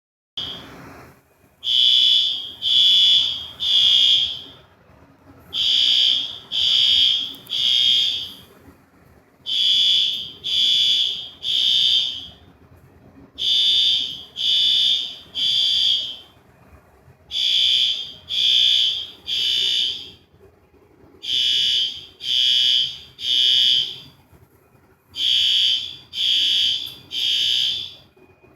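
Fire alarm sounding the temporal-three pattern: three loud, high beeps, then a pause, repeating about every four seconds. The pattern is the standard signal to evacuate the building.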